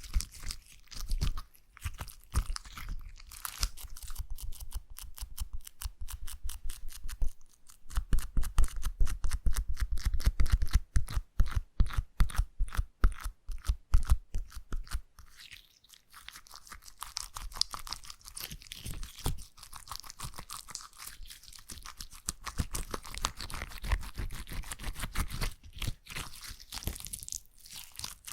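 Slime being squeezed and pressed by hand close to the microphone, giving dense runs of small crackling and popping clicks, fastest and loudest through the middle stretch.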